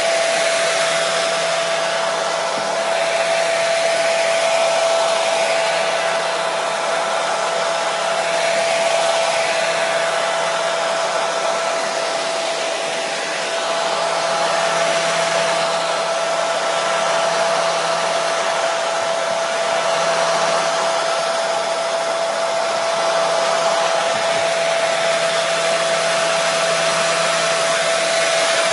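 Hair dryer running steadily: an even rushing hiss of blown air with a constant whine from the motor.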